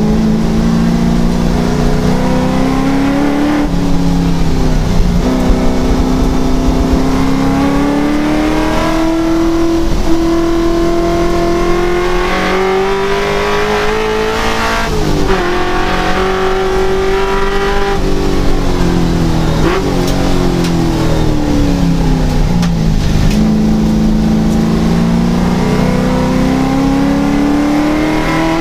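Race car engine heard from inside the cockpit at racing speed, revving up through the gears. It changes gear about four seconds in, holds high revs, eases off past the middle, falls away through a long slowdown and climbs hard again near the end.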